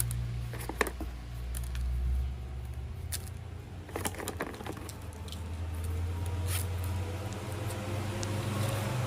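Scattered clicks and taps of small plastic toy train parts being handled, over a low steady hum.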